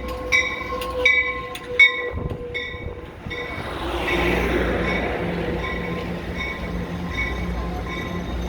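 A train's bell clangs steadily, about once every 0.7 s, over the low rumble of the train. About 3.5 s in, a broad rushing noise swells up and the bell carries on more faintly beneath it.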